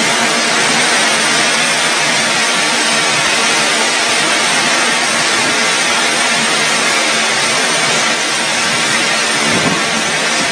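An engine running with a loud, steady rushing roar over a faint low hum.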